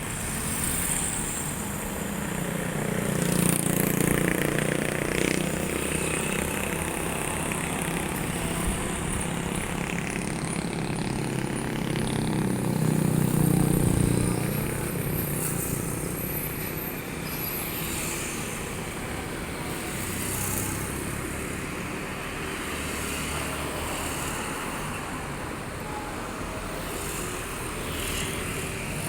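Riding a motorcycle through city traffic: the bike's engine running with road and wind noise and the sound of surrounding traffic, swelling louder twice, a few seconds in and again near the middle.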